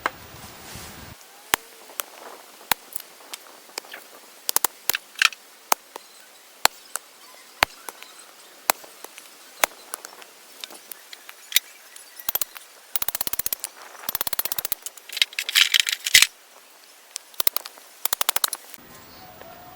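Wood fire crackling and popping: sharp single cracks at irregular intervals, thickening into dense rapid runs of crackles in the second half.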